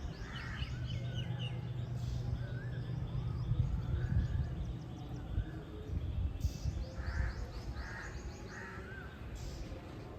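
Birds calling and chirping, with a run of three rough calls about a second apart near the end, over a low steady rumble.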